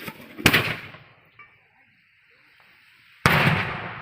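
Two loud, sharp bangs about three seconds apart, each dying away over a moment, the first preceded by a smaller pop.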